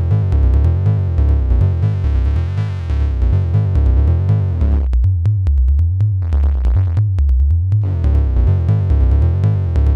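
Sequenced synthesizer music from a Behringer Neutron and a Donner B1 bass synth: a loud repeating bass line with sharp drum-machine ticks over it. The upper parts thin out for a few seconds around the middle, then return.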